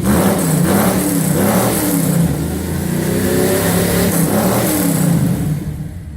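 Old Dodge truck engine revving up and down, its pitch rising and falling about once a second, then easing off near the end. It has just been started on starting fluid with the air cleaner off.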